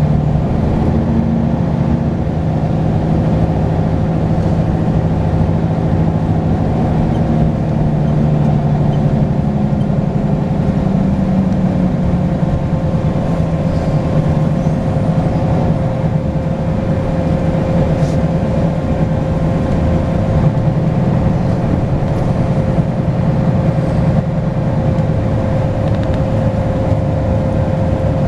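Volvo B10BLE bus's six-cylinder diesel engine running under way, with a steady turbo whistle held above the engine note; the engine tone shifts in pitch about ten to twelve seconds in.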